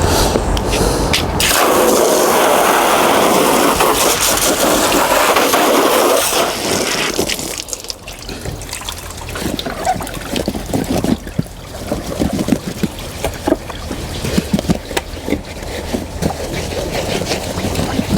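Water hose spraying onto a boat in a steady rush that starts about a second and a half in and stops about seven seconds in, followed by irregular splashes and drips.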